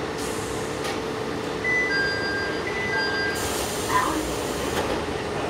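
Diesel railcar standing at a station with its engine idling, as a two-note chime sounds twice. Then a hiss of air runs for over a second, with a light knock in it, typical of the doors opening.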